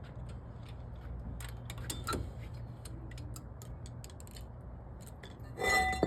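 Scattered light metallic clicks and clinks of hand tools working on a car, over a steady low hum, with a slightly louder clatter near the end.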